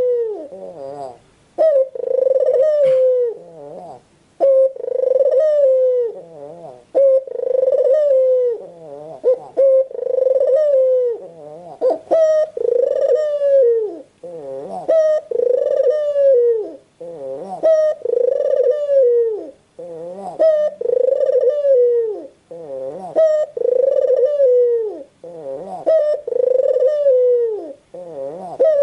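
White Barbary dove (puter putih) cooing over and over. Each call is a short lead-in note followed by a longer coo that falls in pitch, repeated about every one and a half to two seconds.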